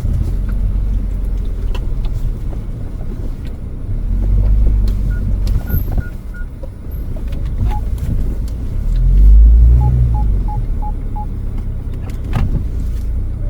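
Car driving slowly up a rough mountain track: a steady engine and road rumble that swells twice, with scattered knocks from bumps. Two short runs of quick electronic beeps are heard, one near the middle and one later.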